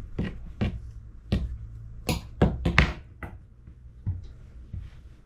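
About eight irregular sharp clicks and taps during a puppy's foot trim on a grooming table, thinning out after about three seconds, over a steady low hum.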